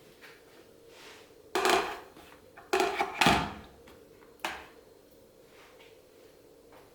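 A few knocks and clatters of hard household objects being handled and set down, about four in all with the loudest near the middle, over a faint steady hum.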